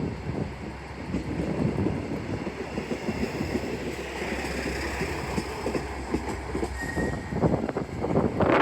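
Diesel railcar running along the platform, its wheels knocking and clattering over the rails continuously, with a brief high squeal about seven seconds in.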